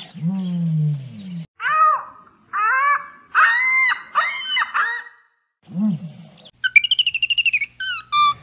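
A string of separate animal calls with dead silences between them: a low falling groan, then several high chirping calls, a short low call, a fast trill of chirps, and whistled notes near the end.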